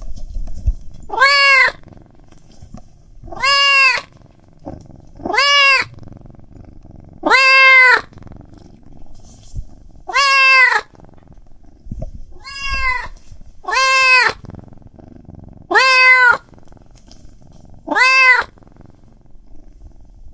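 A cat meowing over and over: nine drawn-out meows about two seconds apart, each rising and falling in pitch, with a low rumble between them.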